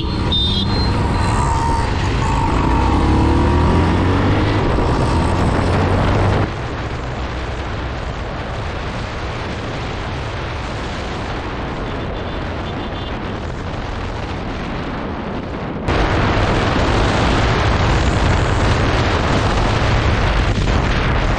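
Bajaj Pulsar 220F's single-cylinder engine running on the move, with a steady low hum under heavy wind buffeting on the microphone. The level drops abruptly about six seconds in and rises just as suddenly again about sixteen seconds in.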